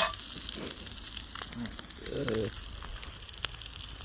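Buttered cheese sandwich frying on a cooking surface over a campfire: a steady sizzling hiss with scattered sharp pops.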